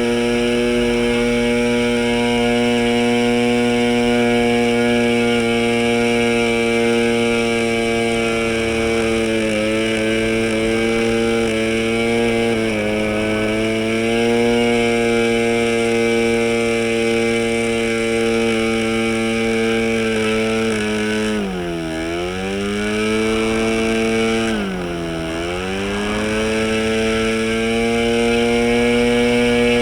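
O.S. 15LA model two-stroke engine converted to run as a diesel, swinging a 10x6 propeller at a steady high buzz. Its speed sags briefly twice in the last third and picks back up.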